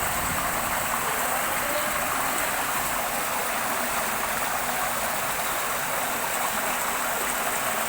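Rain falling steadily with rainwater running, an even hiss that does not change.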